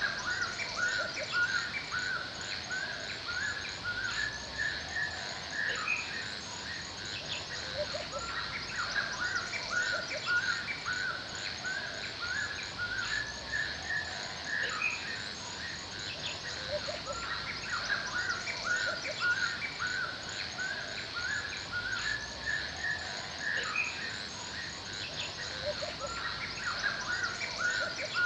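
Forest birdsong: many short bird chirps and calls repeating without pause over a steady high-pitched background chorus, typical of insects.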